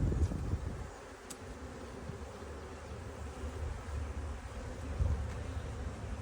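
Honeybees buzzing in a dense, steady drone around an open hive while frames are moved over from a nuc, with one sharp click about a second in.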